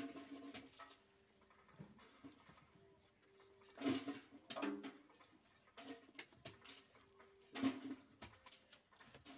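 Close-up chewing and mouth sounds of a man eating a ripe banana, with a few louder throaty mouth noises about four seconds apart.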